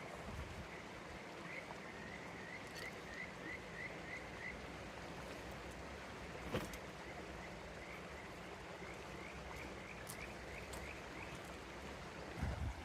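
A river running steadily, with two runs of short high chirps from a calling animal, about three a second, and a single sharp click about six and a half seconds in.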